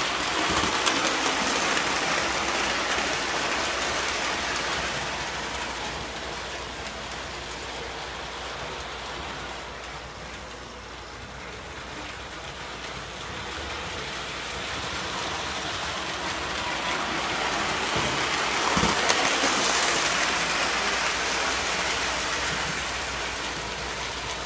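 Vintage toy electric train running around its track, a steady rattle and whir of wheels on the rails and motor. It grows fainter and louder as it circles the loop, quietest about midway and loudest again near the end.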